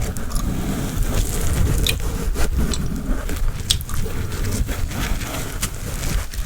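Gum chewing close to a sensitive microphone: moist, irregular clicks and smacks over a low rumble.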